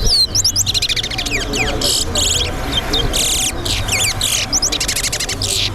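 Towa-towa (chestnut-bellied seed finch) singing in a song contest: rapid whistled chirps and buzzy trilled phrases, one after another.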